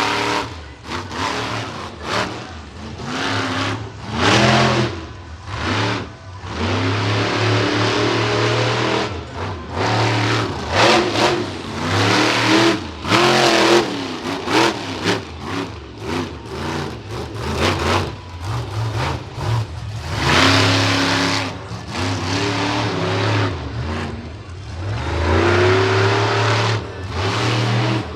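Monster truck engine revving hard in repeated bursts of throttle, its pitch and loudness rising and falling over and over.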